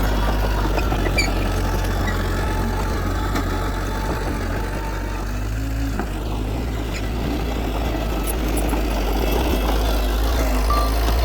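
Heavy diesel engine running steadily at a low, even pitch.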